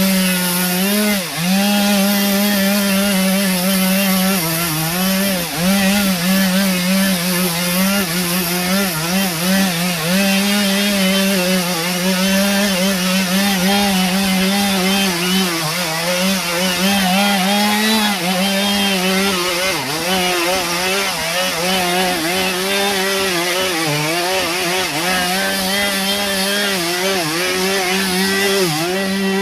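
Chainsaw running at high revs while cutting into a paulownia log to hollow out a hive, the wood chips adding a rasping noise over the engine. The engine note dips briefly now and then as the chain bites into the wood and recovers.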